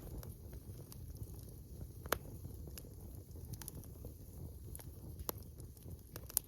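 Wood campfire crackling: sharp, irregular pops and snaps over a low rumble.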